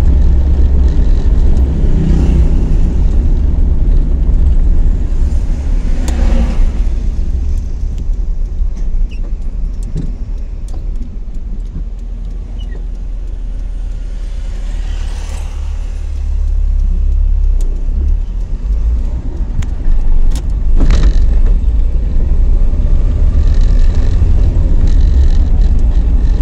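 VW Gol's 1.6 CHT engine with Weber 460 carburettor running while driving, heard from inside the cabin as a heavy low drone with road noise. It is quieter through the middle and louder again after about 16 seconds.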